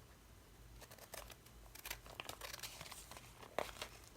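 Paper crinkling and crackling as it is handled, a run of small irregular crackles starting about a second in.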